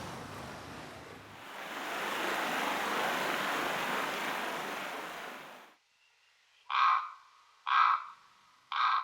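Steady rushing noise, like wind in the field, that cuts off abruptly about six seconds in, followed by three short harsh animal calls about a second apart.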